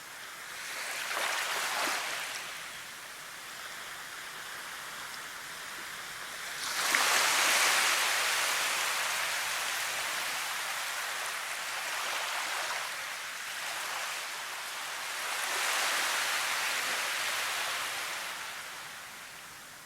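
Rushing water that swells and fades several times, with a sudden surge about seven seconds in that slowly dies away.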